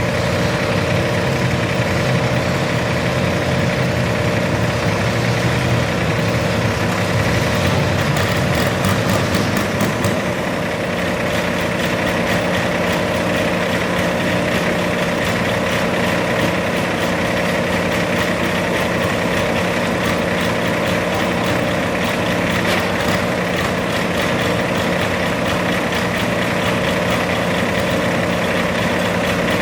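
Garden tractor engine idling steadily, its low note settling slightly about ten seconds in.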